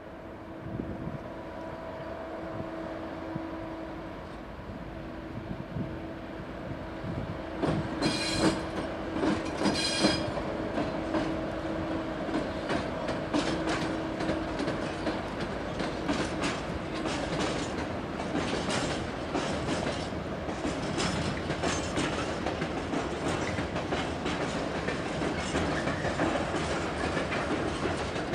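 Train wheels running over rail joints and points, heard from aboard the moving train: a steady hum at first, two brief high screeches about eight and ten seconds in, then a denser clickety-clack as the sound grows louder.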